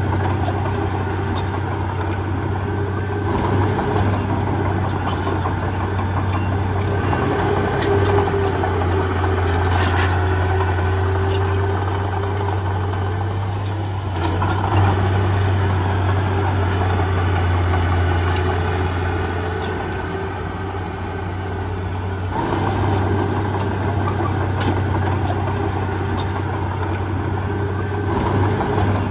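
Heavy diesel engine of the earthmoving machinery running steadily, with scattered small clicks and knocks over it.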